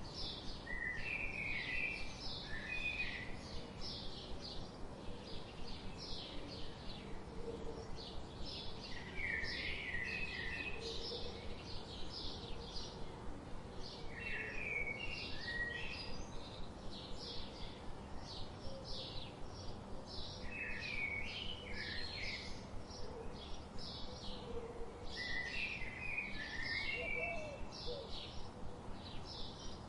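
Songbirds chirping: a steady run of short high chirps, about two or three a second, with a lower warbled phrase every five or six seconds, over a steady low background hiss.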